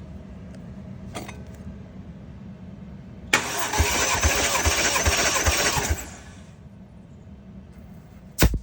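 Toyota 1JZ-GTE VVTi inline-six cranked on its starter motor for about two and a half seconds with no start, the low pulses coming about twice a second, as in a compression test. A single sharp thump follows near the end.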